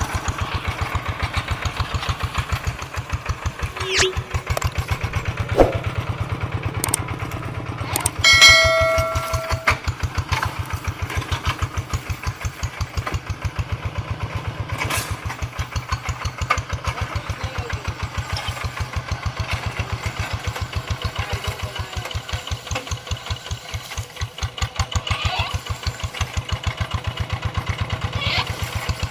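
Paddy-field tractor's diesel engine running with a steady, rapid pulsing chug. A couple of sharp knocks come about four and five and a half seconds in, and a brief high ringing tone comes around eight seconds in.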